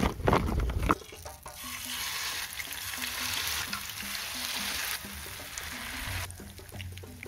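Battered durian flowers sizzling in hot oil in a small wok as they are dropped in, the hiss starting about a second and a half in and falling away just after six seconds. A few knocks and rustles come in the first second, and soft background music with a plucked tune runs underneath.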